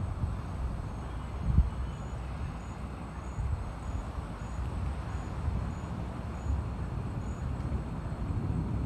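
Tropical storm wind and sea making a steady low, gusting rumble on the microphone. A faint insect chirps high above it in a slow, regular series.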